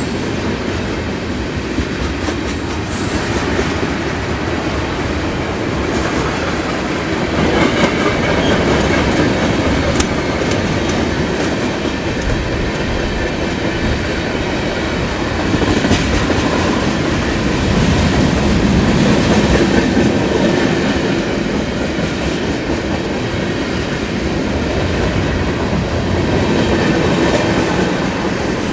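Norfolk Southern freight train NS-122 rolling past close by: a steady, loud run of railcars, with the clickety-clack of wheels over the rail joints and a little wheel squeal.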